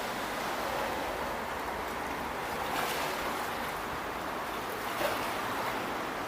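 Steady rushing background noise, with a couple of faint knocks about three and five seconds in.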